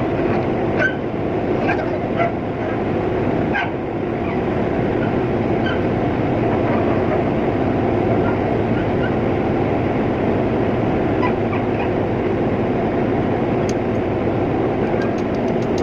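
Steady mechanical rumble of a tugboat's machinery running, with a few faint clicks and knocks in the first few seconds and near the end.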